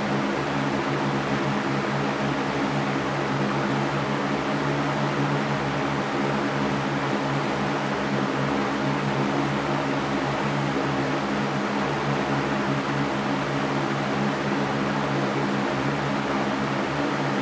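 Electric fan running steadily: an even whooshing rush of air with a low motor hum beneath it, unchanging throughout.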